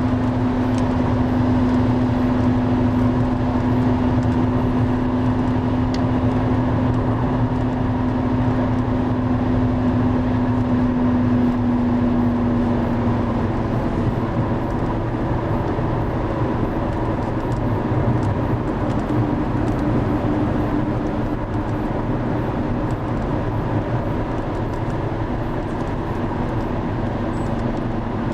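Loud, steady rushing of the River Driva in heavy flood, with a steady hum over it that shifts to a slightly higher pitch about halfway through.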